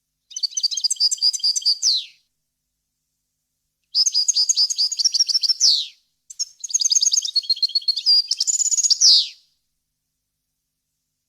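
European goldfinch singing: three phrases of rapid twittering notes, each ending in a quick downward sweep, with short pauses between them and the last phrase the longest.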